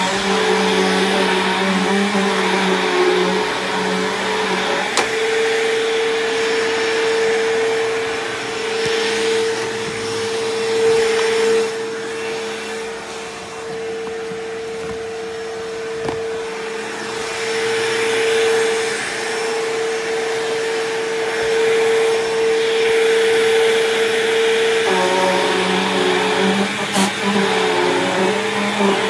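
Bissell CleanView upright vacuum running steadily while vacuuming. Its motor hum settles into a single steady note about five seconds in, then goes back to a rougher, lower sound about four seconds before the end.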